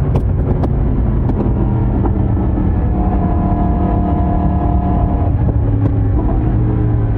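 2022 Yamaha YZF-R1's crossplane inline-four exhaust running at fairly steady revs while cruising. There are a few sharp clicks in the first half-second.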